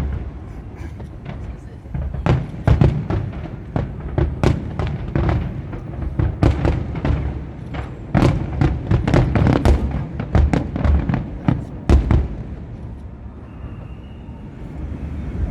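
Aerial fireworks bursting in a rapid barrage: dozens of sharp bangs and cracks come in quick succession for about ten seconds, then die away near the end.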